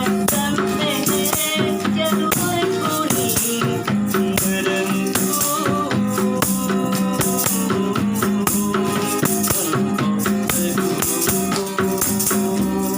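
Street buskers' music: a shaker-type rattle keeps a steady beat over pitched instrumental accompaniment.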